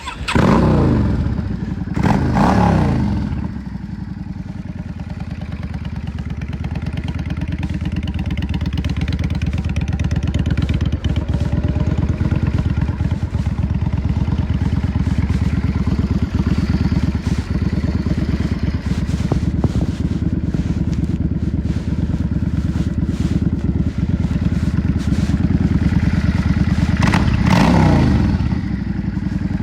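Yamaha XVS 650 V-Star's air-cooled V-twin engine under way, heard up close. The revs fall away twice in the first three seconds. The engine then runs steadily, slowly building, and the revs drop again near the end.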